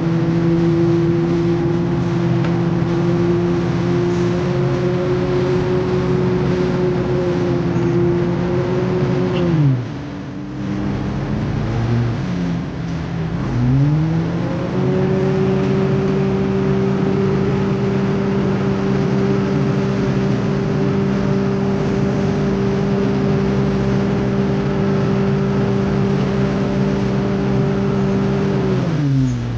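Heavy construction machine's diesel engine running at high, steady revs. About ten seconds in the revs drop away, then climb back up a few seconds later and hold steady, before dropping again near the end.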